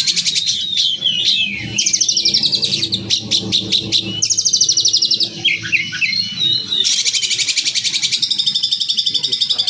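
A songbird singing harsh, rapid-fire trills, each a fast even rattle lasting a second or two, alternating with short rising and falling whistled chirps. It is a kasar, fast 'tembakan' song of the kind used as masteran to train contest birds.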